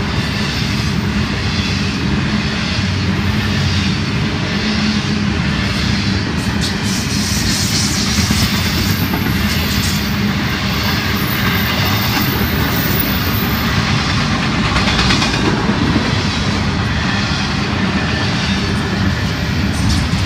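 Double-stack intermodal container well cars of a Florida East Coast Railway freight train rolling past: a steady loud noise of steel wheels running on the rails, with a few faint clicks.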